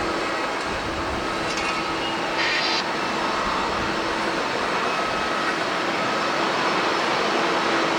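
Jet airliner engines running, a steady rushing noise with a held whine. A brief high hiss comes about two and a half seconds in.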